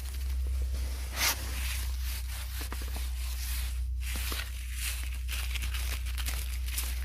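Close-miked rustling and crackling with many small clicks and a sharper crackle about a second in, over a steady low hum.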